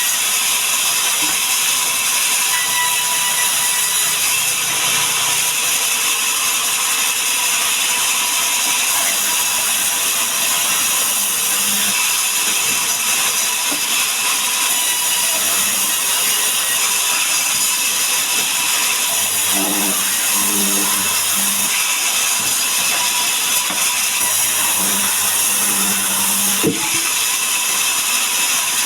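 Sawmill saw cutting through mahogany: a loud, steady, hissing mechanical noise, with one sharp knock near the end.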